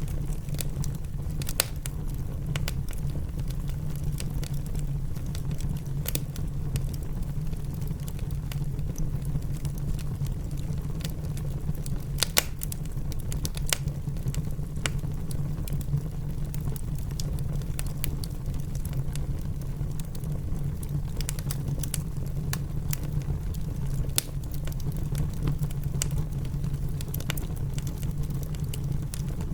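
Wood fire crackling in a fireplace, with scattered sharp pops, a few louder ones about twelve seconds in, over a steady low rumble of rain.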